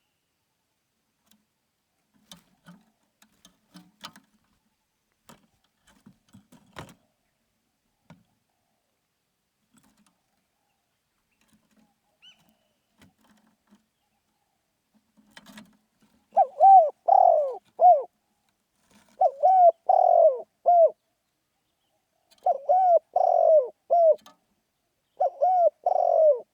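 Spotted dove cooing: four loud phrases of several notes each, about three seconds apart, starting some sixteen seconds in. This is the vigorous calling that keepers prize. Before the cooing there are only faint, scattered clicks and taps.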